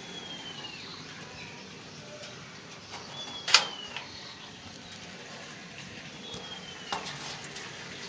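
A bird calling with a thin falling whistle, repeated about every three seconds. A sharp click about three and a half seconds in is the loudest sound, with a softer click near the end.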